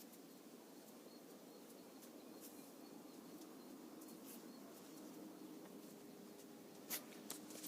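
Near silence: faint room tone, with a sharp click near the end and a smaller one just after it.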